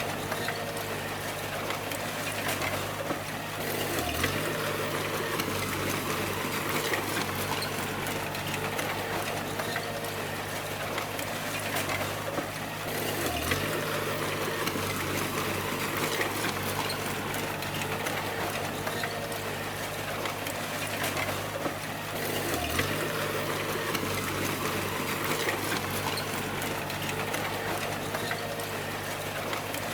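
Bulldozer's diesel engine running steadily under a constant hiss. Its note dips briefly three times, about nine seconds apart.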